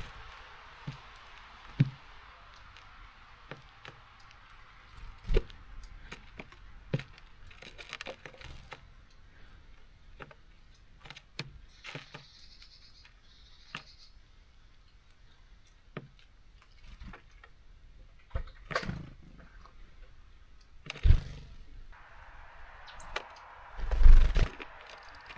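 Small birds feeding at a seed feeder: many scattered taps and scrapes of beaks and feet on the feeder, with several louder thumps, the loudest near the end. A short high chirp about halfway through.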